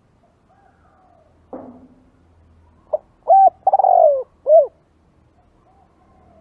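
Spotted dove cooing: one loud phrase of four notes, a short coo, two longer coos and a final one, about three seconds in, with fainter coos before and after. A brief sharp sound comes about a second and a half in.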